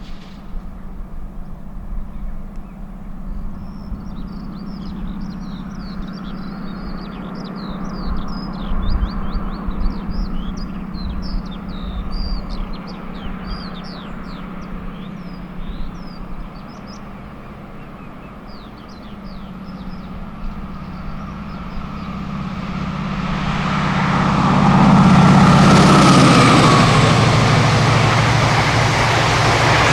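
Diesel passenger train's engine hum, steady at first, then building into a loud rush as the train runs through about 25 seconds in, with its engine note dropping in pitch as it passes. Birds chirp over the first half.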